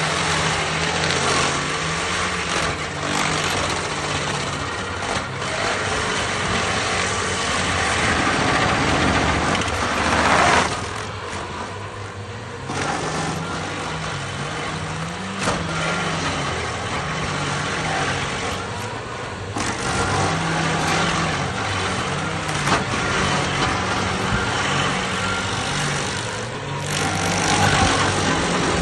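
Stump grinder running under load, its engine pitch rising and falling as the cutter wheel grinds into a tree stump, over a constant noise of wood being chewed. The load eases briefly about a third of the way in and again around two thirds through.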